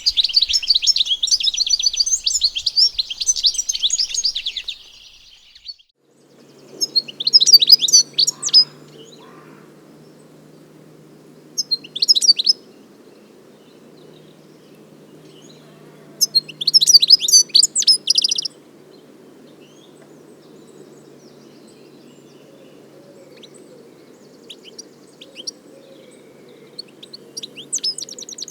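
European goldfinch singing: a continuous high, twittering run of song for about five seconds, then after a short break, brief bursts of song a few seconds apart. A faint steady low hum sits under the later bursts.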